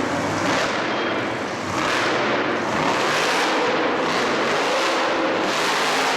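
A motorsport vehicle engine revving loudly under a dense wash of arena noise, its pitch rising and falling.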